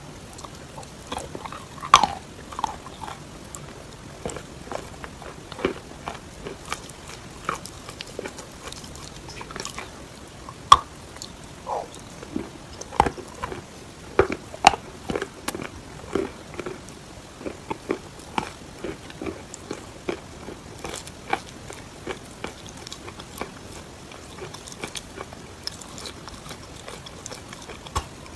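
A person biting and chewing chalk with clay paste: sharp, dry crunches and crackles at irregular intervals, the loudest about two, eleven and fifteen seconds in.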